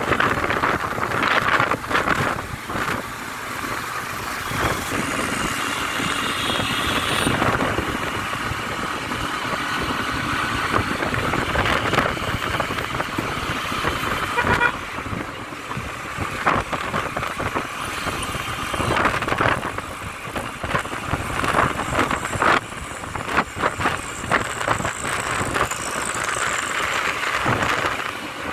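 City traffic heard from a moving motorbike: engines and road noise with irregular buffeting, and horns sounding now and then.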